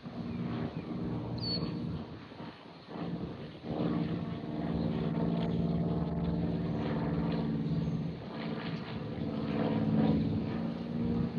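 Aircraft engine droning with a steady pitched hum. It drops away briefly about three seconds in, then comes back steadier and louder.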